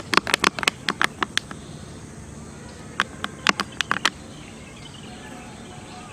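Two quick runs of sharp clicks, several a second: one through the first second and a half, another about three seconds in, over a steady faint hiss.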